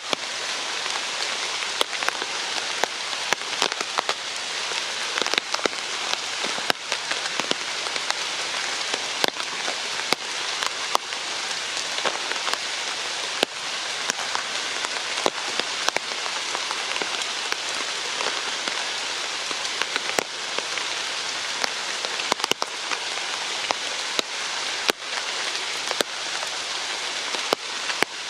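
Steady rain falling, with frequent sharp taps of drops striking close by.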